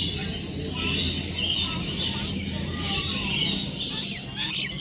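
Many birds chirping and calling at once, with short high chirps and whistles overlapping throughout. A steady low hum runs underneath.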